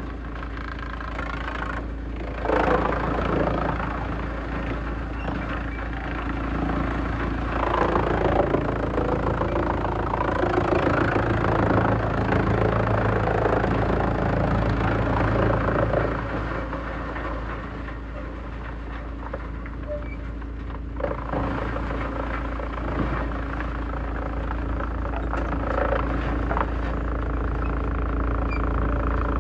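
Large industrial wood shredder running, its engine holding a steady note. It grows louder and rougher as wood is being shredded from about two seconds in until about sixteen seconds in, with a few sharp knocks along the way.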